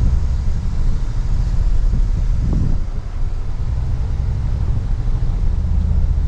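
Toyota Tundra pickup crawling over a rough off-road trail, heard from inside the cab: a steady low rumble of the engine and drivetrain under load.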